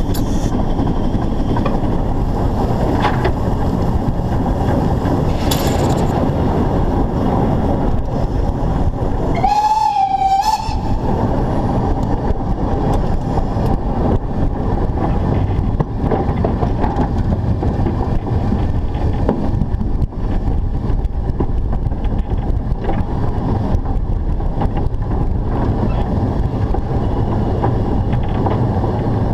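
Narrow-gauge steam locomotive running with its train, a steady rumble close to the locomotive. About ten seconds in, the locomotive's whistle gives one short blast.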